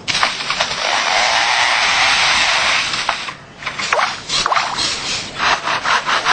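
Superb lyrebird mimicking a chainsaw: a steady buzzing rasp for about three seconds, then a quick run of stuttering, rattling pulses.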